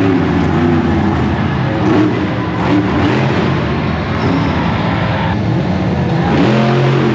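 Monster truck engine running loud, its revs rising near the end.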